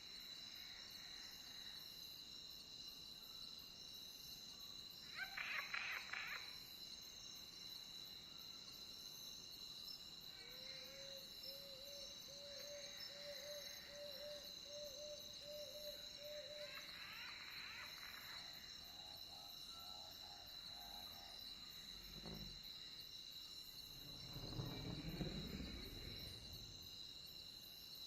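Night nature ambience: a steady, high, continuous trill of crickets with a few short animal calls over it, including a run of about a dozen quick, low, evenly spaced notes in the middle.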